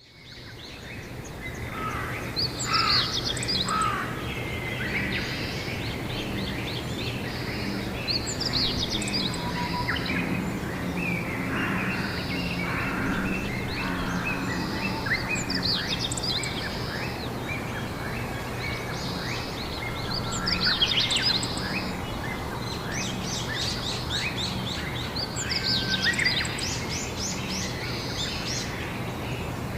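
Songbirds singing and chirping outdoors, with clusters of quick chirps and trills every few seconds, over a steady low hum and background noise. The sound fades in at the start.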